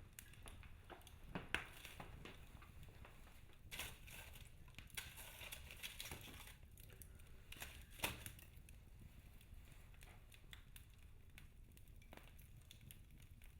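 Logs burning in a fireplace, crackling with scattered sharp pops over a low steady rumble. The two loudest pops come about a second and a half in and about eight seconds in, with a busier patch of crackling between.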